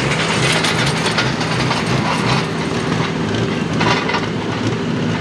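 Diesel farm pulling tractor's engine running hard and steady under full load as it drags the weight-transfer sled down the track, with a dense rumble over a constant engine note.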